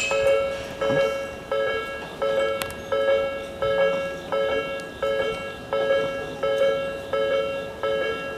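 Railway level-crossing warning bell ringing, an electronic two-tone ding repeating evenly about every half second or so.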